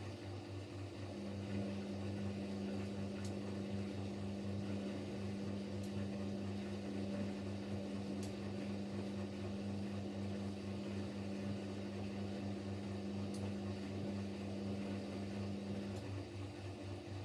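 Siemens Siwamat Plus 574 front-loading washing machine running at the end of its fabric-softener rinse: a steady low hum, joined by a steady higher tone that starts about a second in and stops near the end, with a few faint clicks.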